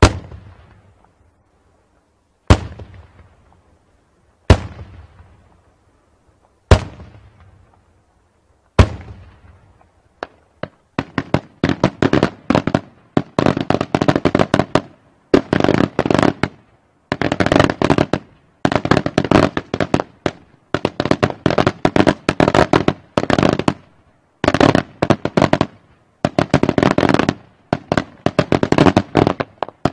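Daytime aerial fireworks: five single loud shell bursts about two seconds apart, each echoing away. From about ten seconds in, dense rapid strings of small bangs follow in clusters with short pauses between them.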